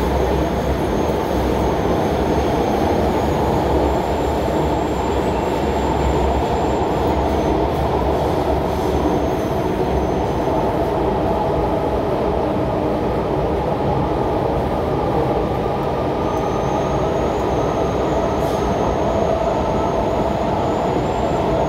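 Inside the car of an MTR SP1900 electric train running at speed: a steady rumble of wheels on rails. A faint high whine comes and goes above it.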